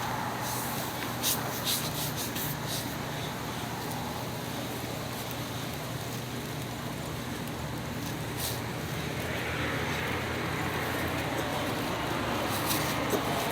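Steady background noise like road traffic, with a low hum, a few light clicks, and a swell of noise a little over halfway through, as of a vehicle going by.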